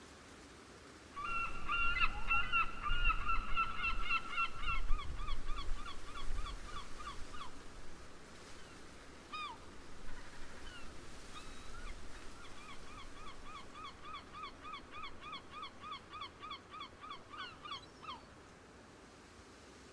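A bird calling in two long runs of rapid, evenly repeated notes, each note dipping slightly in pitch, with a few single calls between the runs. A low wind rumble sits under the first run.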